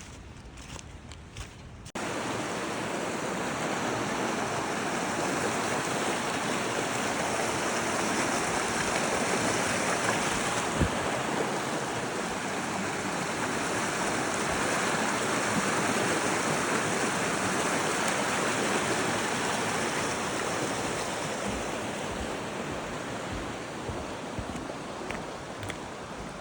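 Steady rushing of running water, like a mountain stream, starting abruptly and holding at an even level, with one brief knock about halfway through.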